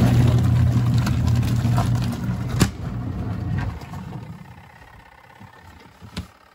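Portable twin-tub washing machine's motor humming steadily, with a sharp click about two and a half seconds in; the hum dies away from about four seconds in.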